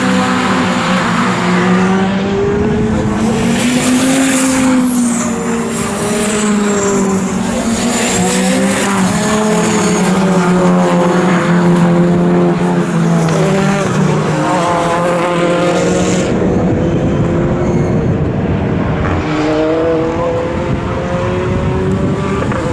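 Racing car engines at full race pace, their pitch climbing and dropping again and again through throttle and gear changes.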